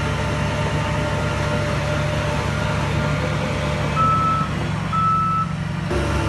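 Heavy diesel earthmoving machinery running steadily, with a reversing alarm beeping twice, about a second apart, just past the middle.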